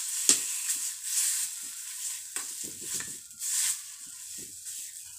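Spiced mashed potato sizzling in hot oil in a karahi, with a spoon stirring and scraping against the pan in short knocks. The sizzle grows quieter toward the end.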